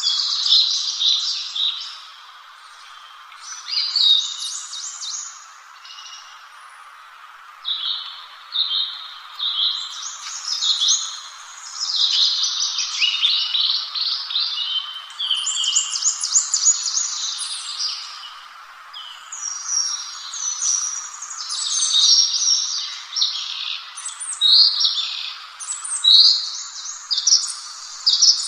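A songbird singing in repeated bursts of rapid, high chirping phrases with short pauses between, over a steady background hiss.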